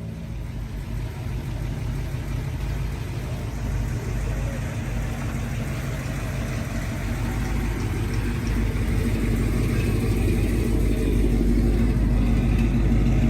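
A car engine running steadily at low revs, growing gradually louder.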